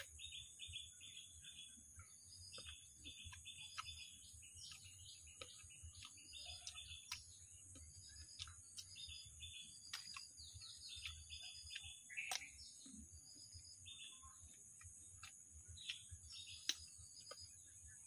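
Birds chirping faintly in quick runs of short high notes, over a steady high hiss, with a few faint clicks scattered through.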